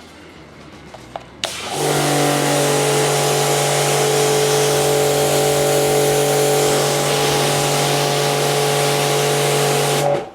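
A few small clicks, then the V-TUF V7 brushless electric pressure washer runs steadily with the green nozzle fitted: a motor and pump hum under the loud hiss of the water jet. It cuts off suddenly near the end as the trigger is released.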